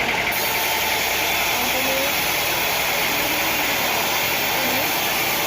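Machinery running with a steady mechanical noise, at an even loudness and with no distinct knocks or cuts.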